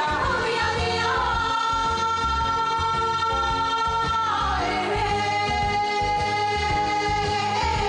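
Pop song with a singer holding a long note, then sliding down to a second, lower long note, over the band's accompaniment.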